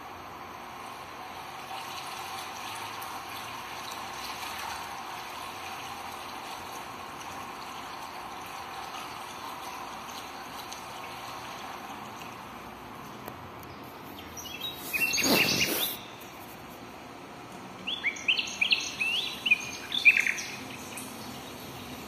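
Birds calling on a film soundtrack heard through a projection room's speakers: a steady hiss, a loud burst of noise about fifteen seconds in, then a quick run of short, sharp, downward-sweeping chirps a few seconds later.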